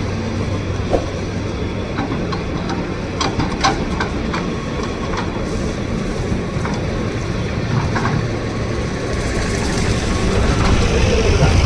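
Tata Hitachi 200 excavator working: steady diesel engine and hydraulic noise with scattered metallic clanks and knocks, growing louder near the end.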